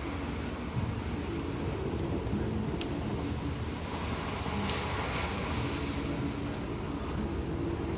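Rough sea and wind around a boat hit by heavy waves: a steady low rush of water and wind, with wind buffeting the microphone and a louder wash of water about five seconds in.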